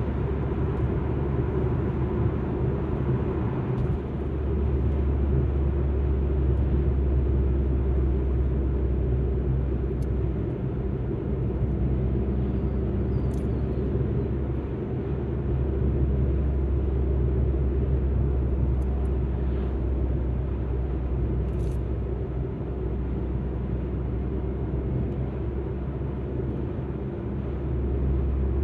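Steady low rumble of an Alfa Romeo MiTo being driven: engine and tyre noise, swelling and easing slightly with the road.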